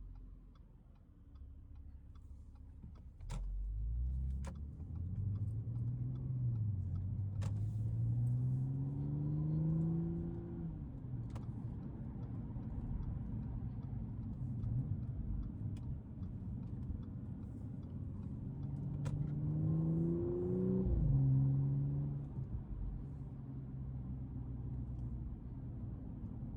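The 2012 Audi S5's supercharged 3.0 V6 accelerates twice. Its pitch climbs from about four to ten seconds in and again from about eighteen to twenty-one seconds, dropping sharply each time as the gearbox shifts up, then it settles into a steady low cruising rumble. A few sharp clicks come through along the way.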